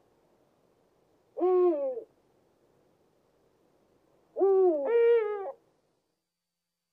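Eurasian eagle owl calling: three drawn-out calls, each falling in pitch at the end, one about a second and a half in and a pair back to back a little before five seconds in.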